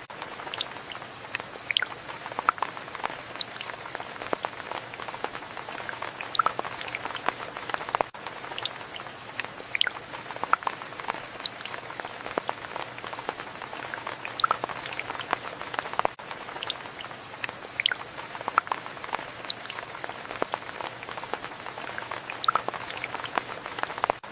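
Rain, with many distinct drops tapping close by over a steady patter. The same stretch of rain repeats about every eight seconds.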